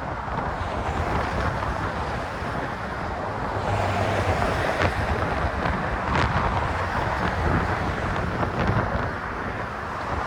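Wind buffeting the phone's microphone in a steady rush, over a low rumble of road traffic.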